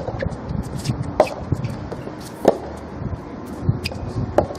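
Soft tennis rally: the soft rubber ball is struck by rackets with a sharp hit roughly every second and a quarter, with softer knocks between.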